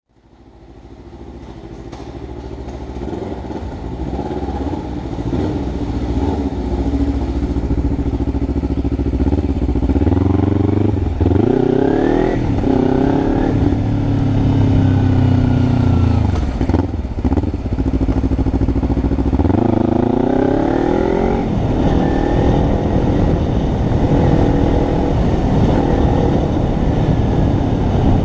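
Kawasaki Ninja 300's parallel-twin engine running under way. The sound fades in over the first few seconds, then the engine revs up twice, about ten seconds in and again about twenty seconds in, with a brief drop in between.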